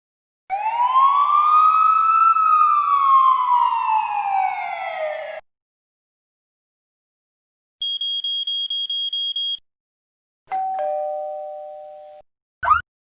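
A series of separate cartoon-style sound effects. First comes a whistle-like swoop that rises and then falls over about five seconds. After a pause there is a rapid high ringing lasting about two seconds, then a two-note chime, high then lower, that fades away, and finally a quick rising chirp near the end.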